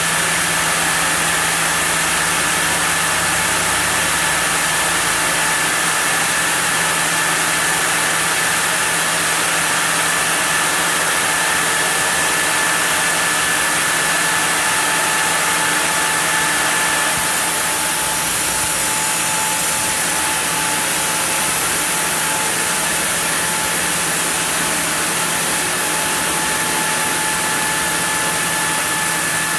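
Sawmill saw running steadily while cutting a block of zelkova wood, with a constant machine hum and a high hiss of the cut.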